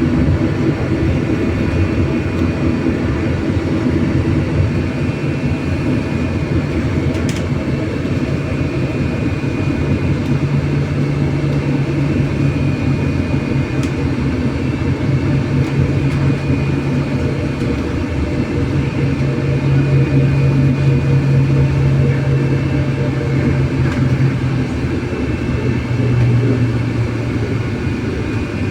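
Inside the cabin of an MAZ-303E10 electric bus driving: a steady road and tyre rumble under an electric motor whine whose pitch shifts now and then as speed changes, with a couple of brief clicks.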